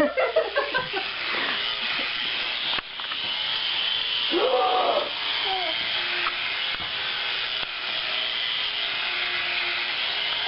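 Small remote-control toy helicopter in flight: its electric motor and rotor whirring steadily with a high-pitched buzz, briefly dipping near three seconds in.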